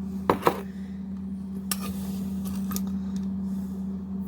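Spoon clinking on glass teacups and jar as sugar is measured out: two sharp clinks close together just after the start, then a few lighter taps, over a steady low hum.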